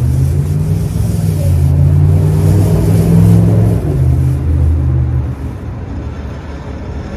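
A motor vehicle's engine running close by, loud and steady for about five seconds, then fading away.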